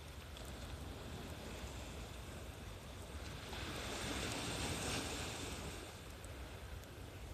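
Sea waves washing onto the shore as a steady rushing noise, with one louder wash swelling and fading in the middle.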